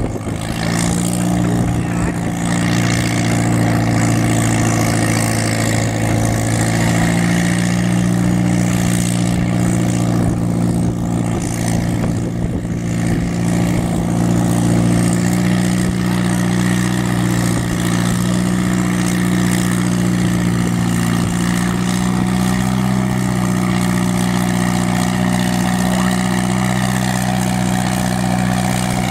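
Tractor engine running at a steady speed, its pitch holding level with no revving.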